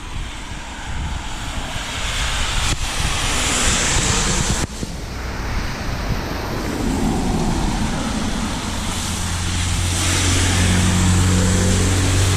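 Traffic passing along a flooded road, tyres hissing through the running water, with a vehicle engine's low hum growing steady in the last few seconds.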